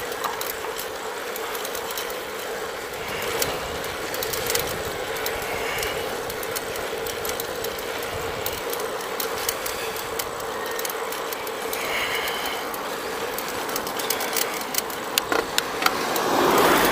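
Bicycle on the move: steady rolling and drivetrain noise with a constant hum and many small ratcheting clicks and rattles. A louder rush swells up near the end.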